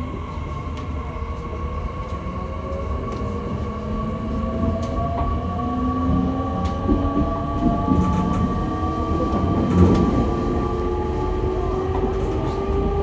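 E501-series electric train's traction motors and inverter whining inside the motor car as the train accelerates, several tones climbing steadily in pitch over the rumble of the wheels on the rails.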